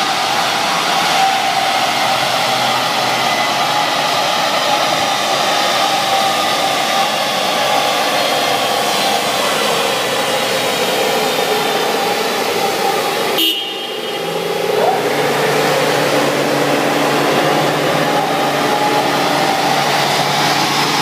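Subaru Impreza WRX's turbocharged flat-four engine running on a chassis dynamometer, its driven wheels spinning the rollers, under a steady blowing roar. The engine's pitch sinks slowly, the sound drops briefly about thirteen seconds in, then the pitch rises and holds.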